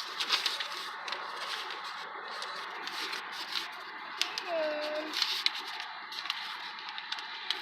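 Sheet of paper rustling and crackling as it is folded and creased by hand, in many short irregular crinkles. A brief, faint pitched sound falls and levels off about halfway through.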